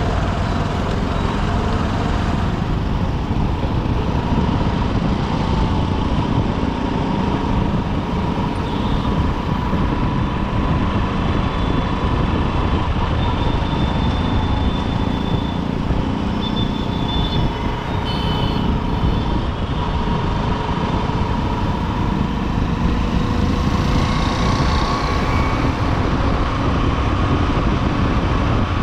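Honda SP125's single-cylinder four-stroke engine running under way, mixed with steady road noise and the noise of dense city traffic around it. A few faint high tones come and go around the middle.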